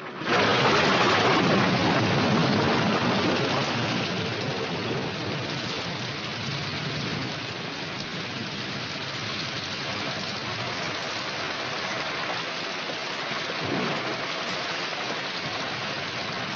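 Storm soundtrack of heavy rain and wind, a dense steady hiss. It comes in suddenly, is loudest in the first few seconds, then settles to a steady level.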